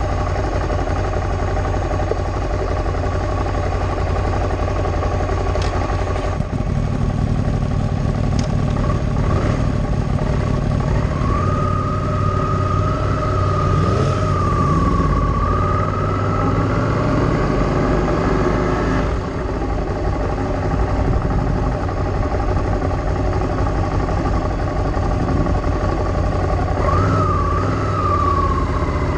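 A motor vehicle engine running steadily, with a wavering high whine over it for several seconds in the middle and again near the end.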